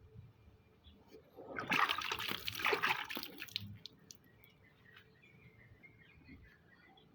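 Water splashing for about two seconds as a spotted dove is bathed.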